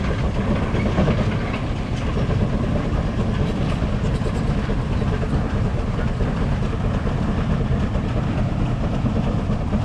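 Case steam traction engine running steadily under load, pulling a twelve-bottom plow.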